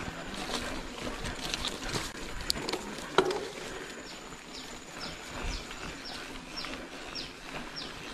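A bird calling a run of short high whistled notes, each falling in pitch, a little over two a second, starting about four seconds in. Before it, scattered clicks and rattles with one sharp knock about three seconds in.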